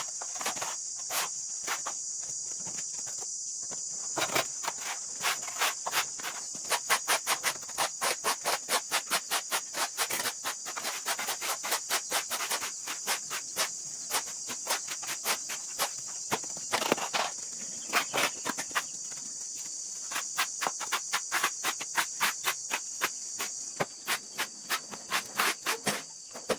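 Insects trill steadily and high-pitched, with a rapid, irregular series of sharp knocks or scrapes, about two to three a second, running through it.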